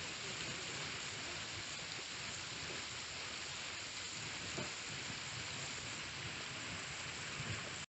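Steady rush of flowing river water, an even hiss with no change in pace, cutting off suddenly at the end.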